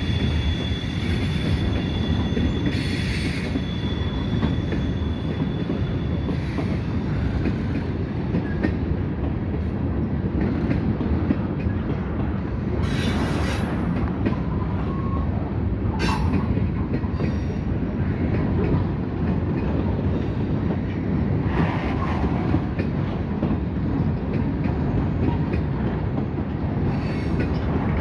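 Freight cars of a Norfolk Southern train rolling past at close range: a steady rumble of steel wheels on rail. A thin, high wheel squeal holds for the first several seconds, and brief squeals and clanks come and go at irregular moments.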